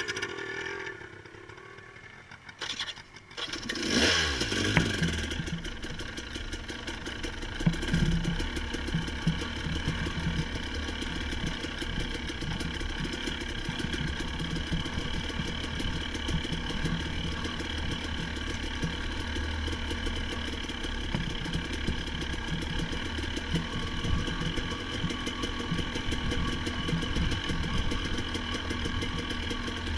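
An engine starts about four seconds in, revs up and settles, then runs steadily.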